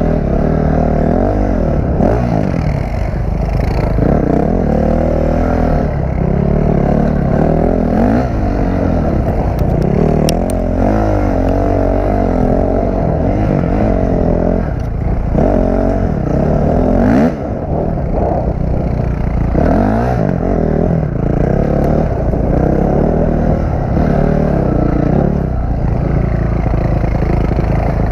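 Dirt bike engine revving up and down again and again as it is ridden, its pitch rising and falling every second or two, with a short break in the sound about seventeen seconds in.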